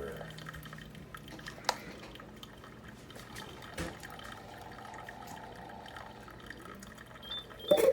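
Faint dripping and trickling water in an Instant Solo single-serve coffee maker, with a low steady hum, two sharp clicks, and a louder knock near the end.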